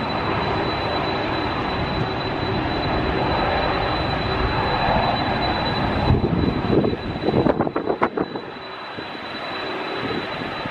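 Airliner engine noise from a passing jet, with a thin steady high whine. From about six seconds in, strong gusts of wind buffet the microphone in irregular low bursts as the engine noise fades.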